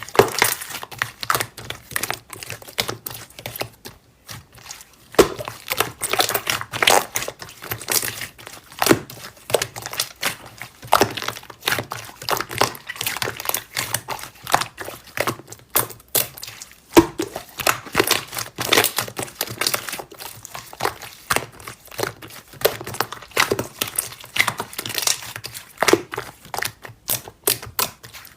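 Slime being squished and worked by hand, giving an irregular, continuous run of crackling, clicking pops.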